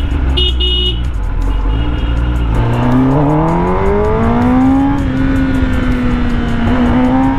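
Kawasaki ZX-10R's inline-four engine accelerating: the engine note rises steadily for about two seconds, then holds steady at speed. A few short beeps come in the first second.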